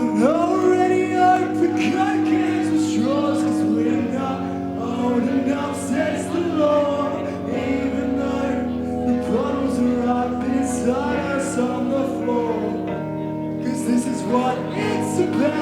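Live band playing a song with sung vocals over sustained chords that change every few seconds.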